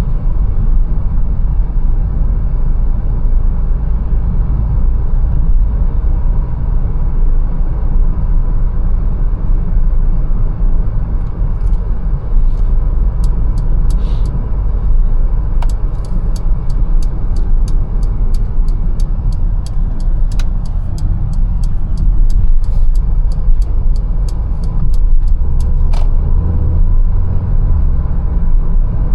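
Mercedes-Benz A180 on the move, a steady low rumble of engine and road noise. Through the middle a run of sharp, evenly spaced ticks goes at about three a second, and near the end the rumble grows louder for a few seconds.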